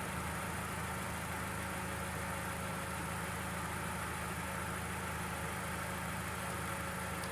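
Small engine running steadily at an even speed, most likely the mower's Briggs & Stratton engine.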